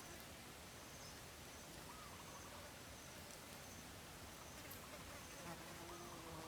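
Faint outdoor ambience: a steady hiss with faint insect buzzing and short, high-pitched chirps repeating about once a second.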